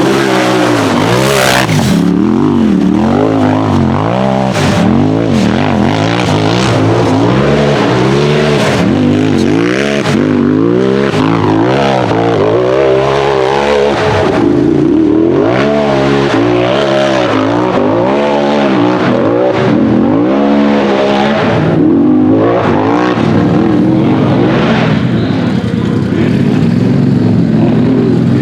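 Turbocharged Polaris RZR buggy engine revving hard under load, its pitch rising and falling again and again as the throttle is worked on and off.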